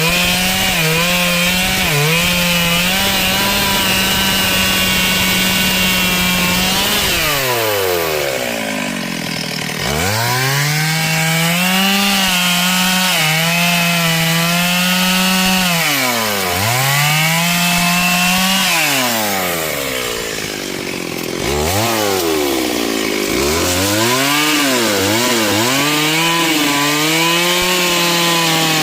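Two-stroke chainsaw running at high revs while cutting wood. The engine note falls away several times as the throttle is let off, then revs straight back up, with a few quick dips near the end.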